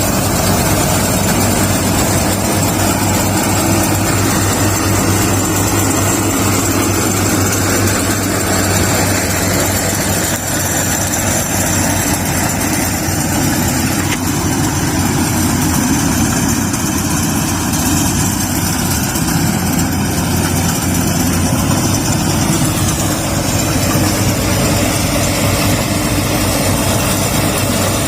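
Yanmar YH850 combine harvester's diesel engine running steadily, with a constant low hum and machinery noise.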